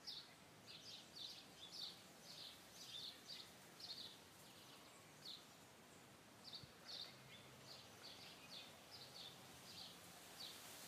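Faint bird chirps, short high notes repeating about two or three times a second with a pause of about a second midway, over a low background hiss.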